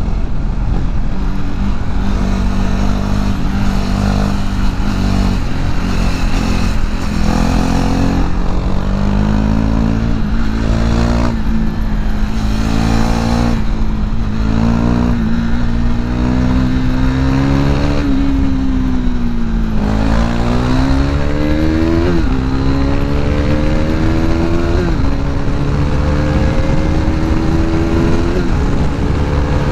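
Modified KTM RC 390's single-cylinder engine pulling hard at speed, its note climbing steadily under a rush of wind. About two-thirds through the pitch dips and climbs again, then drops briefly three times near the end as it shifts up.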